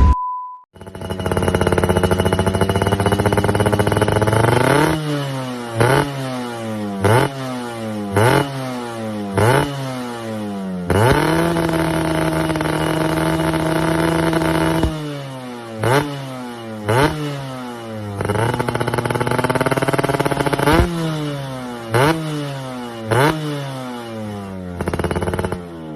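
Yamaha F1ZR two-stroke single-cylinder engine with an aftermarket racing exhaust, revved in repeated quick blips at about one a second. In the middle it is held high and steady for about four seconds, then the blips start again.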